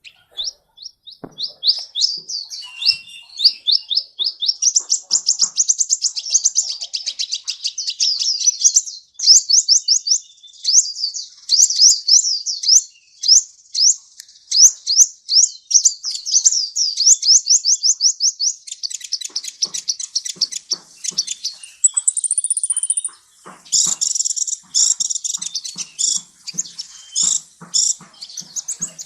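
A sunbird (the 'kolibri' of Indonesian bird-keepers) singing a long, rapid, high-pitched song of fast sweeping chirps, several a second. From about two-thirds of the way in it turns to sharper, clicking notes, with a brief held high note among them.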